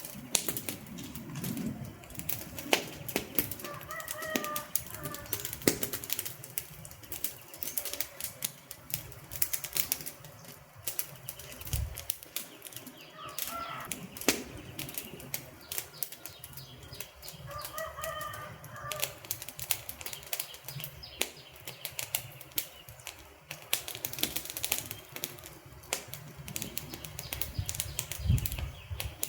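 Wood campfire crackling, with dense irregular snaps and pops of burning logs over a low hiss of flame.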